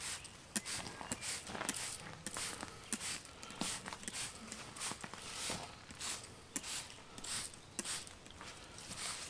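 Hand trigger spray bottle squirting wood stain onto boards in quick repeated pumps, about two short hissing sprays a second.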